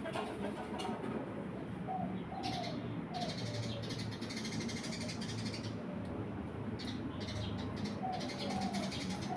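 Eurasian tree sparrows chirping in short bunches of quick high notes, with a few lower calls among them, over a steady low background hum.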